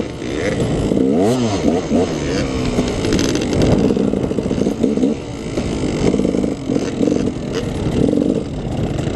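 KTM 300's single-cylinder two-stroke dirt bike engine revving up and down over and over, its pitch rising and falling as the throttle is worked.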